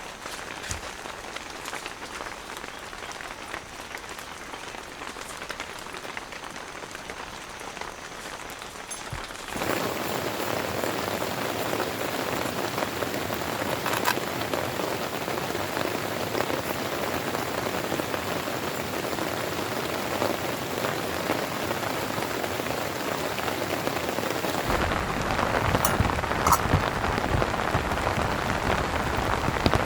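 Heavy rain falling steadily. The hiss jumps louder about a third of the way in and gets fuller and heavier again near the end.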